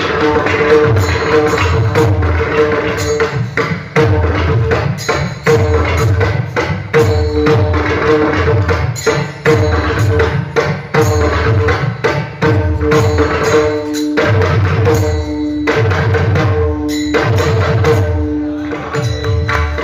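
Instrumental devotional music: pakhawaj drumming in a fast rhythm with deep bass strokes, over steady held notes from a harmonium, with jingling cymbals keeping time.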